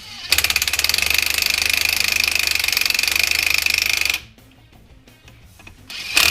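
A handheld power tool runs for about four seconds with a rapid, even hammering and a steady high whine, then stops; a short second burst comes near the end.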